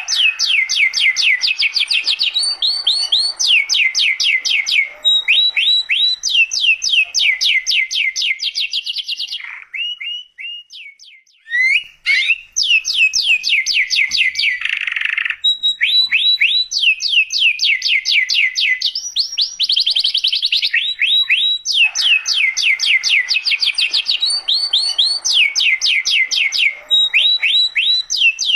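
Domestic canary singing long, rapid trills of repeated descending notes, one run following another, with a short break about ten seconds in.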